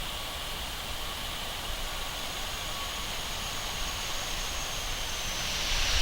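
Aircraft engine noise from an approaching airliner: a steady rush with a faint high turbine whine, growing louder near the end.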